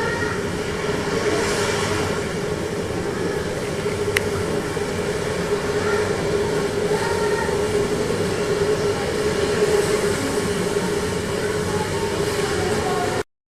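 Steady hum and background noise of an aquarium hall, with faint distant voices; it cuts off suddenly near the end.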